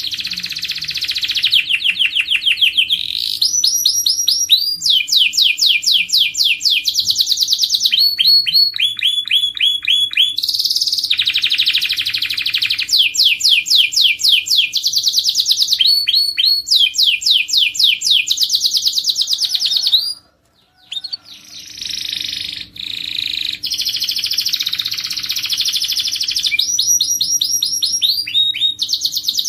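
Domestic canary singing a long song of fast trills and rolling phrases, each a run of rapidly repeated notes, switching from one trill to the next every second or two. The song breaks off briefly about two-thirds of the way through, then carries on.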